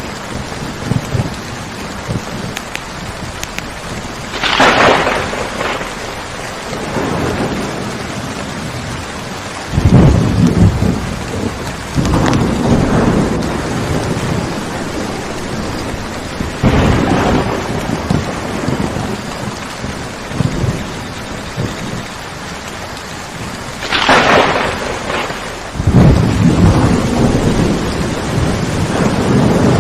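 Thunderstorm: steady heavy rain with thunder rolling in again and again, about half a dozen times. Deep rumbles alternate with a couple of sharper cracks, one about four seconds in and one about two-thirds of the way through.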